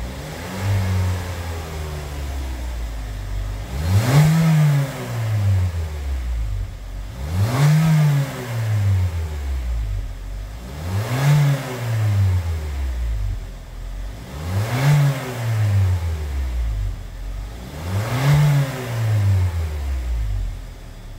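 2016 Hyundai Elantra's 1.8-litre naturally aspirated four-cylinder through an aftermarket single-canister sports rear muffler, idling and blipped five times, each rev rising and falling quickly, about every three and a half seconds.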